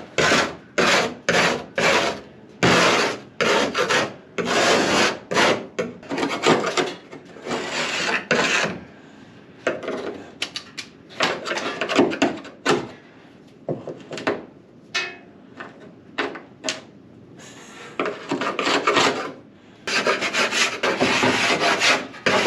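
Scraping old insulation off the inside of a motorhome's roof, in repeated rough strokes about one or two a second. The strokes thin out and grow quieter through the middle, then come fast again near the end.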